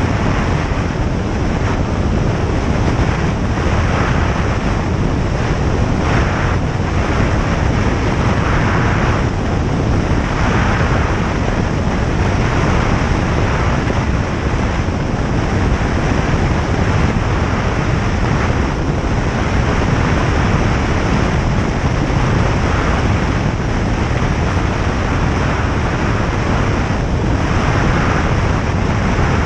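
Steady drone of a single-engine light aircraft in flight, heard from the cockpit: piston engine and propeller running with rushing airflow, at an even level throughout.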